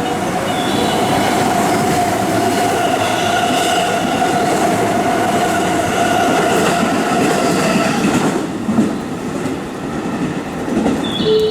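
Electric commuter train passing through the station at speed: loud running and wheel noise with a steady high whine. The noise drops away about eight seconds in as the end of the train goes by.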